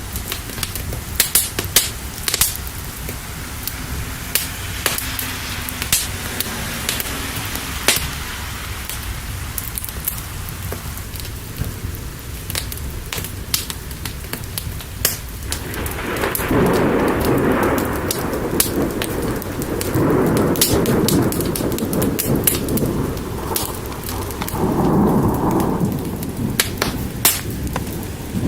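Wood fire crackling with sharp pops over steady rain. A little past halfway, thunder rumbles in three rolling swells a few seconds apart.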